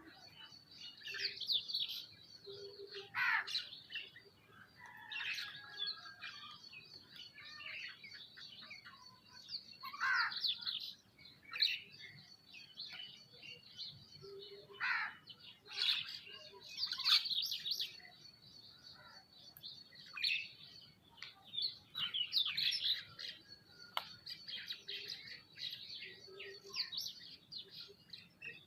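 Several birds chirping and calling in irregular short bursts and sweeps over a steady, thin, high-pitched whine.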